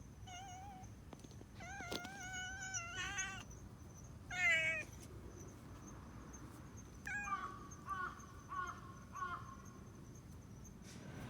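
Cats meowing in a series of calls: a burst of several meows a couple of seconds in, the loudest meow about four and a half seconds in, then four short meows in quick succession in the second half.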